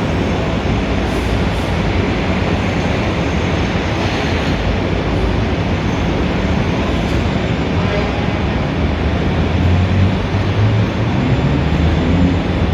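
Dense city street traffic: a steady roar of engines and tyres with a deep rumble. In the last few seconds, a heavy vehicle's engine grows louder and its note rises.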